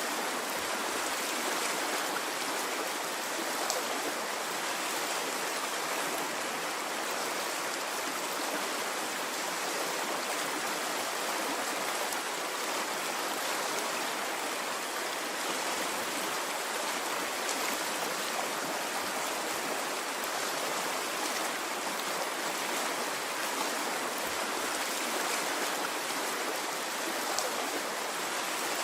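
Water of a stream flowing steadily, an even rushing sound with no rise and fall of waves.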